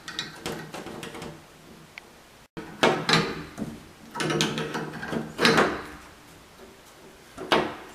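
Handling and tightening a shower valve sleeve over the valve stem: a series of separate metal knocks and scrapes with pauses between them.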